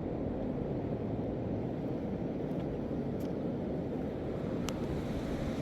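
Steady low rush of fast-flowing floodwater in a swollen river.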